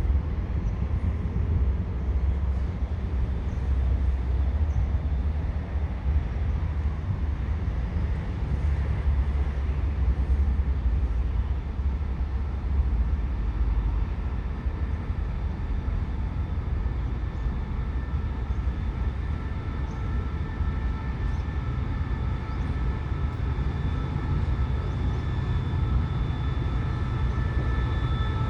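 CRRC CDA5B1 diesel-electric locomotive standing and running at idle: a steady low rumble, joined about two-thirds of the way through by a steady high whine of several tones.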